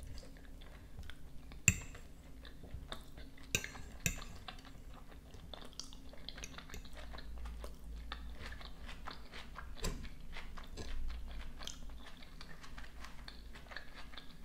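Fork clinking and scraping against a plate a few times as salad is scooped up, the sharpest clinks about two and four seconds in, then close-up chewing of a mouthful of salad with a light crunch.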